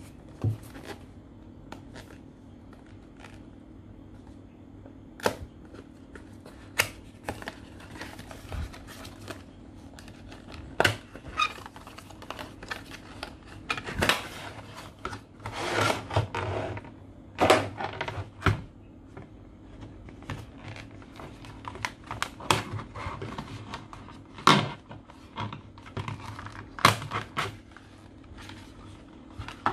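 Packaging handled by hand during an unboxing: scattered clicks and knocks with short bursts of rustling, busiest in the middle.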